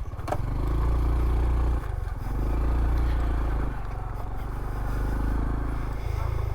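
Honda CT125's small single-cylinder engine running at low trail speed, the throttle opened and eased off in a few surges.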